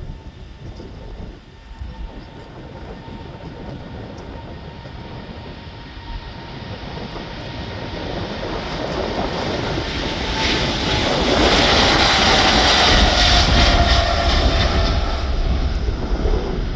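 Jet airliner taking off, its engine noise building steadily and loudest about twelve seconds in, with a whine that falls in pitch as it passes.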